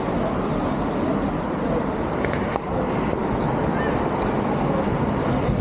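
Steady outdoor city background noise with a low traffic rumble.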